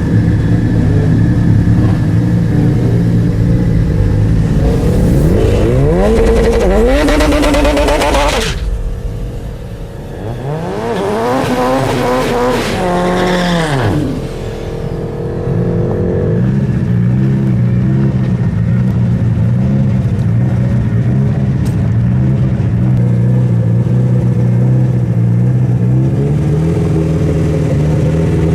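High-performance car engine at hard throttle, revving up with its pitch climbing from about four to eight seconds in. It climbs again from about eleven to fourteen seconds in, then drops off. A steady low drone fills the rest.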